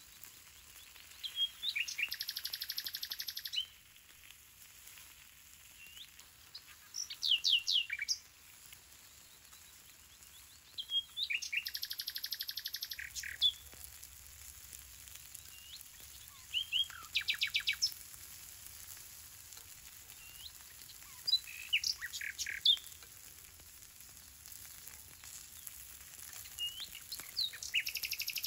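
A songbird sings short phrases of quick whistled notes and a fast trill, repeated about every five seconds. Under them runs a faint steady sizzle of fish and vegetables frying on a hot stone slab over embers.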